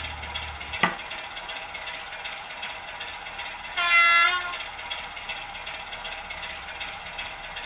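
Sound-fitted OO gauge DCC model locomotive giving one short horn toot from its sound decoder's small speaker, about four seconds in, over a steady running hum. A sharp click comes about a second in.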